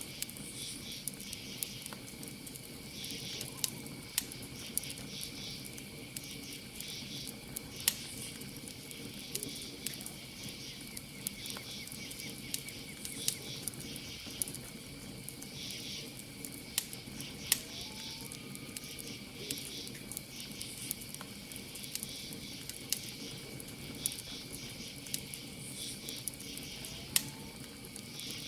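Campfire crackling, with sharp irregular pops over a low steady hiss. Crickets chirp in repeated pulses behind it, along with a steady high insect trill.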